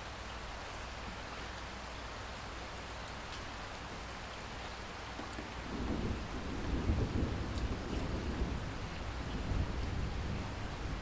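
Steady rain hissing down, with a low, rolling rumble of thunder that builds in a little past halfway and grows louder than the rain.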